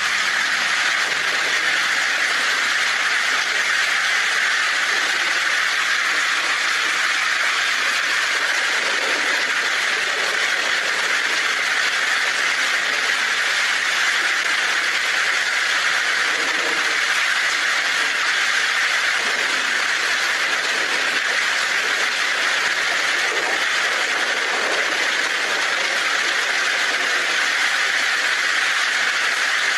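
Heavy rain falling steadily on a tin roof, a dense even hiss with no distinct thunderclaps.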